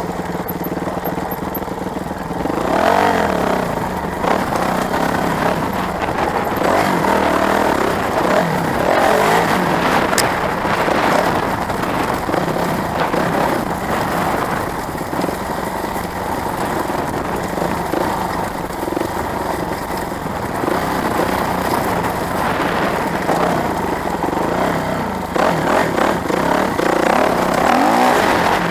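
Dirt bike engine running and revving, with its pitch rising and falling a few times.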